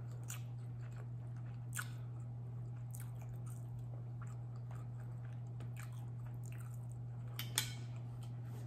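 A person chewing food quietly, with faint wet mouth ticks over a steady low hum. A couple of sharper clicks stand out, about two seconds in and again near the end.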